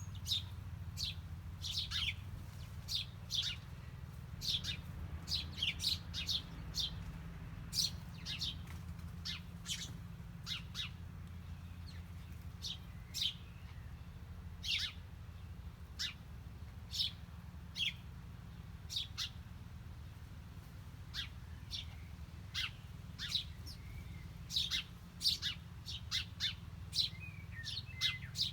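Small birds chirping: many short, sharp, quick-falling chirps in irregular clusters, some close together in runs, over a steady low hum.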